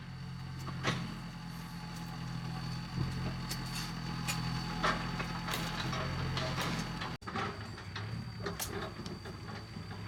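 A motor running steadily with a low hum, with scattered knocks and clicks over it.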